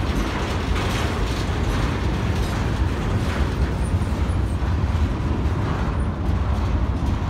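Double-stack intermodal freight cars rolling past: a steady rumble of steel wheels on rail, with a few faint clicks.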